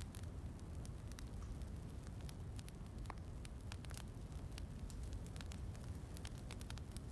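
Wood fire crackling, with frequent short sharp pops over a steady low rumble.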